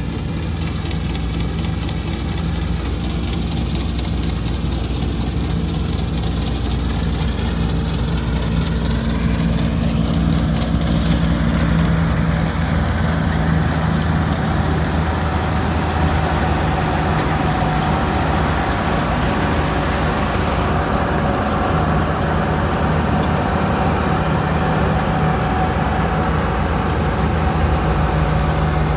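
Wheat harvester's engine running steadily at a constant low pitch, with a change in its higher sound about eleven seconds in.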